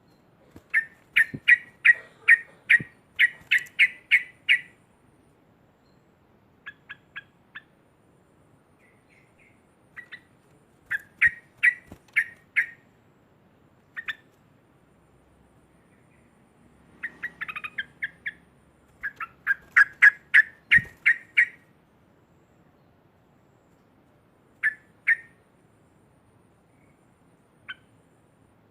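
Yellow-vented bulbul (trucukan) calling loudly in fast chattering runs of sharp, repeated notes, about four or five a second. Three long runs, with short groups and single notes in the pauses between.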